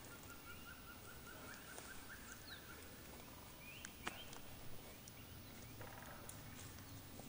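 Faint outdoor quiet with distant birds calling: a run of short repeated chirps in the first two and a half seconds, then a few scattered calls and light clicks.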